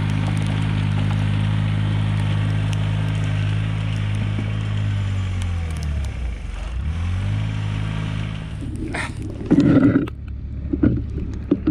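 Mahindra eMax 20S HST tractor engine running steadily; about six seconds in its pitch dips briefly and recovers, as if lugging under load. Near the end the engine note drops away and a few loud clunks and knocks follow.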